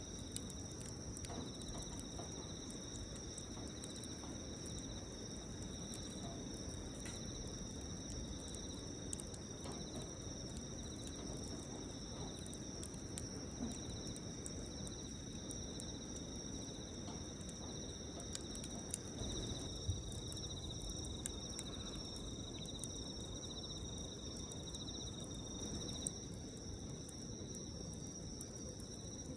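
Insects trilling steadily at two high pitches, over the faint crackle and occasional small pops of a wood campfire.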